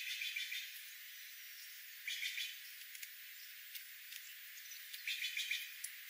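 A bird giving three short calls, about two and a half to three seconds apart.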